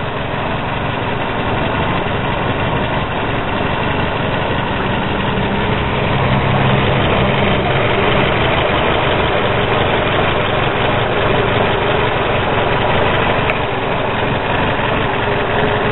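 The 1.9-litre carburetted four-cylinder engine of a 1996 Peugeot 405 GR idling steadily, heard close up in the open engine bay.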